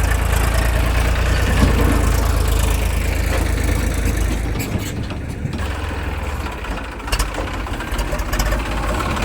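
Heavy diesel engine running at a steady low idle, a deep rumble that eases a little about halfway through.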